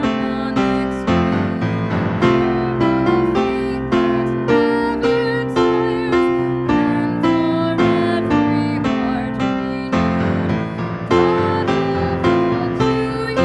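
Piano playing a slow piece in chords, with a new chord or note struck about every half second.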